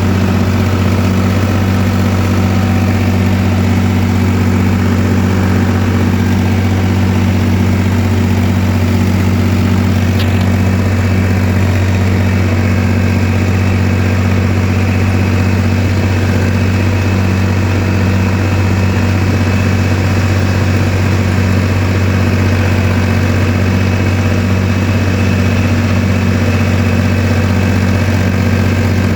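Digitrac 43i tractor's diesel engine idling steadily, with an even low hum that never changes pitch.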